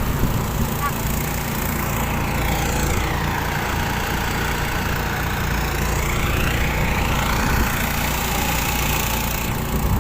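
Small boat's engine running steadily at an even speed.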